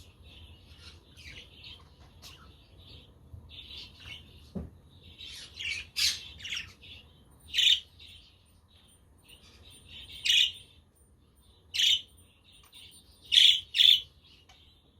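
A flock of budgerigars chattering and twittering, with louder sharp calls breaking out about every second or two in the second half, two in quick succession near the end.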